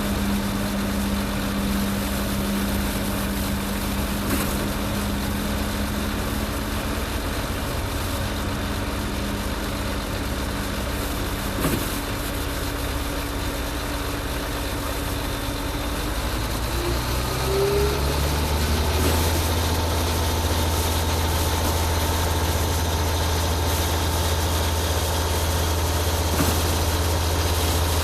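Diesel engine of a concrete pump truck running steadily. About two-thirds of the way in, its pitch climbs and it settles into a louder, higher hum.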